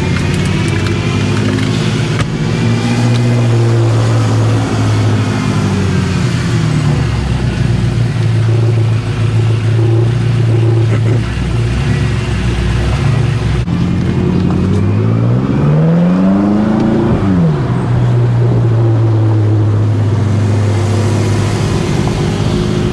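BMW M5 F10's twin-turbo V8 running under way at a steady pitch. About fifteen seconds in, it revs up in a rising pitch for about two seconds, then falls away sharply and settles back to a steady pitch.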